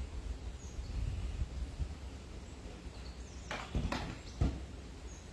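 Wind rumbling on the microphone, with three sharp clicks or knocks about three and a half to four and a half seconds in.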